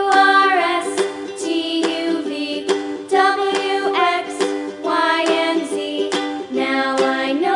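Cheerful children's background music with plucked ukulele-like strumming and a sung melody line.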